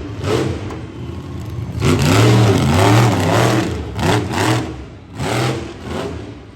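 Monster truck engine revving hard in repeated bursts, the pitch swinging up and down as the throttle is worked. The longest, loudest burst comes about two seconds in, with shorter blips after it.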